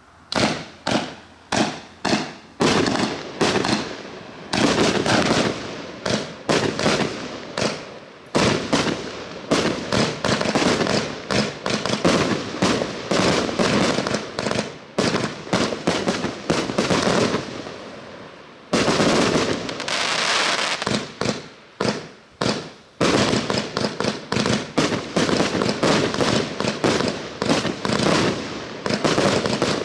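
A 129-shot compound fireworks battery with 25 and 30 mm tubes firing, starting about a quarter second in: a fast run of sharp shots and bursts, at times spaced apart and at times packed into dense, overlapping volleys.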